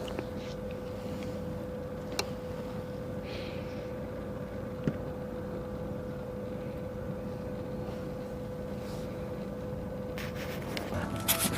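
Steady mechanical hum with a constant mid-pitched tone, broken by a couple of faint clicks.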